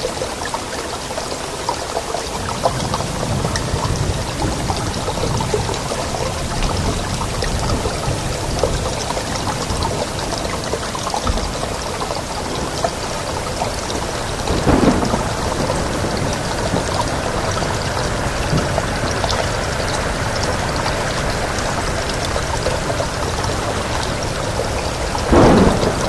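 Steady heavy rain with a low rumble of thunder underneath, and two short louder bursts, one about midway and one near the end.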